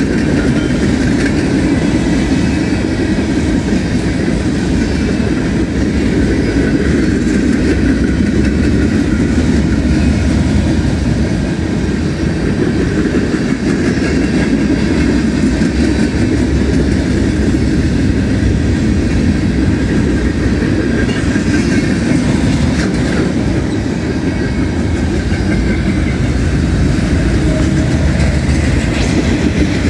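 Freight train's tank cars and autorack cars rolling past close by: a loud, steady rumble of steel wheels on the rails.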